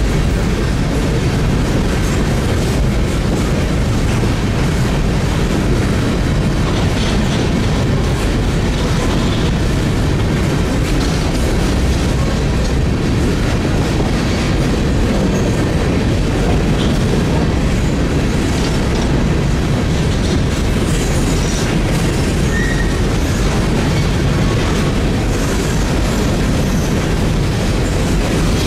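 Freight train of coal cars rolling past at close range: steady, loud noise of steel wheels running on the rails.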